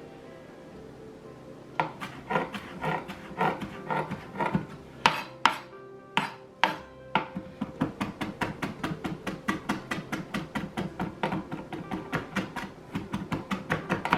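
Knife chopping fresh dill on a chopping board: a few scattered chops at first, then a fast even run of about three chops a second from about eight seconds in.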